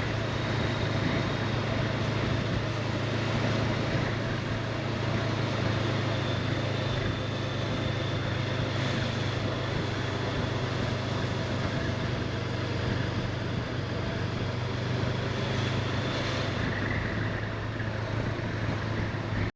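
Honda CB500X parallel-twin motorcycle engine running at a steady cruise, with an even rush of wind and road noise over it.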